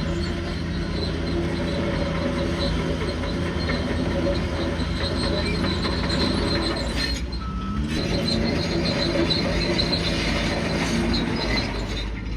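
Bulldozer at work: its diesel engine runs steadily, with a high-pitched squeal from the steel tracks. The sound thins out briefly about seven seconds in.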